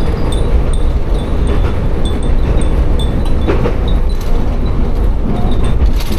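Tsugaru Railway diesel railcar running along the line: a steady low rumble of the wheels and engine. Over it, the glass wind chimes hung in the car tinkle with short high pings at an uneven pace, several a second.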